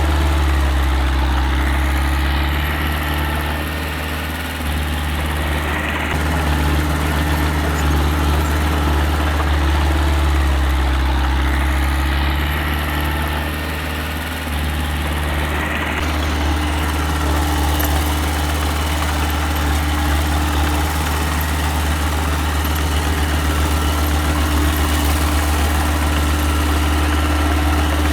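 Diesel engine of a small earthmoving machine running steadily with a deep hum, its note easing and picking up again twice, about four and fourteen seconds in.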